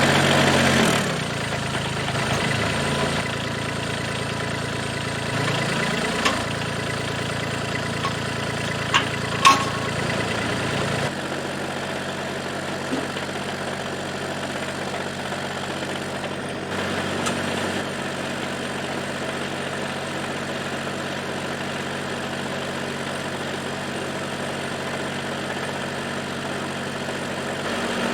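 Massey Ferguson GC2300 sub-compact tractor's diesel engine running. The revs drop about a second in and shift up and down a few times over the next few seconds, with a few sharp metallic clanks. It then idles steadily.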